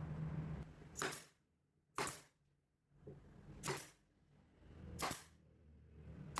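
A low steady hum that stops less than a second in, followed by five sharp clacks or knocks spaced roughly a second apart.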